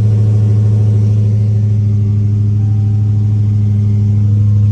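Dodge Charger Hellcat's supercharged 6.2-litre V8 idling steadily.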